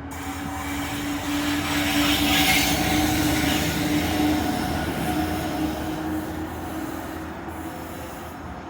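Freightliner Class 66 diesel freight train passing on the rails, with a steady engine tone under the wheel and rail noise. It grows louder to a peak about two to three seconds in, then fades away.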